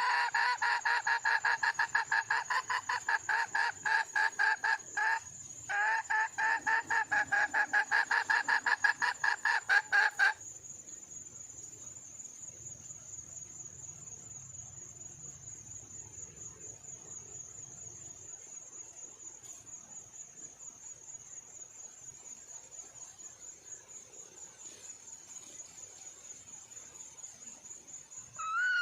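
Female red junglefowl calling: a rapid, even run of clucks, broken once briefly, that stops about ten seconds in. A steady high-pitched insect drone continues underneath and carries on alone afterwards.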